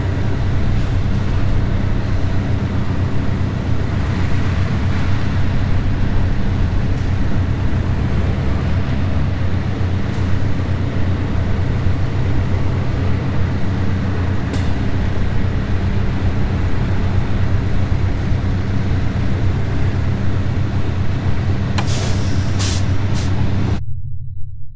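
Semi truck running down the road: a steady low engine drone with road and wind noise, and a few sharp clicks near the end. It cuts off abruptly shortly before the end, leaving only a low hum.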